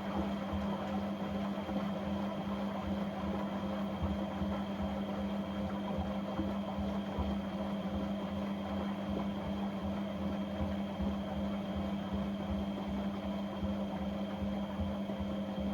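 Washing machine running a quick cycle with a dishwasher tablet: a steady motor hum with a thin high whine and a low, even pulsing underneath.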